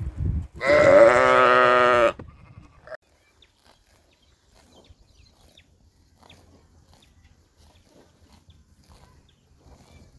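A goat bleating: one loud, wavering bleat lasting about a second and a half near the start, followed by faint rustling and clicks.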